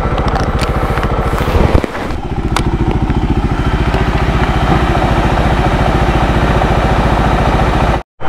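Benelli TRK 251's single-cylinder engine idling with an even, fast pulse. The sound drops out for a moment just before the end.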